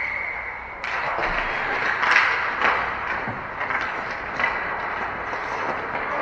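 Ice hockey play on an arena rink: skates scraping and sticks and puck clacking in sharp knocks over a steady hiss of rink noise. A steady high whistle tone stops within the first second.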